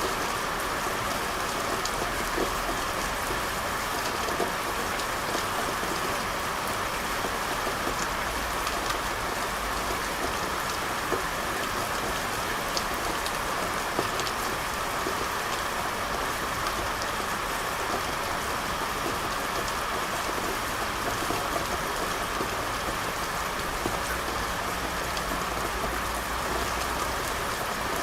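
Steady rain falling on a hard surface, an even hiss with scattered small drop ticks.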